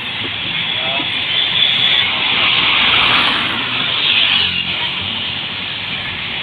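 Steady road noise from a moving vehicle: the rush of wind and tyres with passing traffic.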